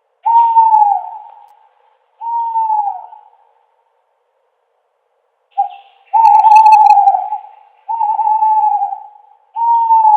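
An owl hooting: a series of clear hoots, each about a second long, holding one pitch and dropping at the end. Two hoots come first, then a pause of about two seconds, then a short note followed by three or four hoots in quick succession.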